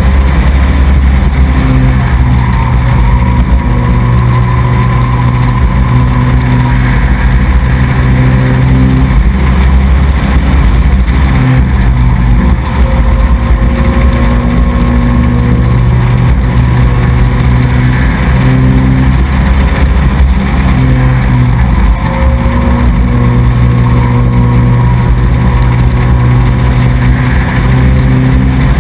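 Racing truck's engine running loud and continuous at fairly steady revs, the pitch dipping and rising slightly with the throttle.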